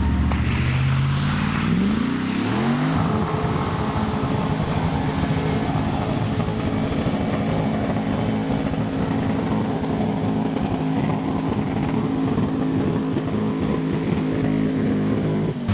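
Off-road vehicle engine revving up over a couple of seconds, then held at a steady high rev under load.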